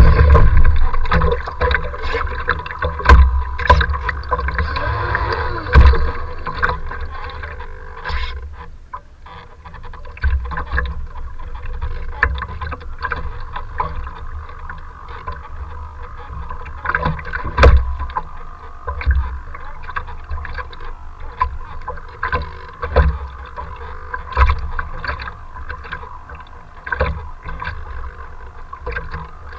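Strong wind buffeting the microphone over choppy water, in irregular heavy low thumps over a steady rushing hiss. The gusts are heaviest in the first few seconds and ease after about eight seconds.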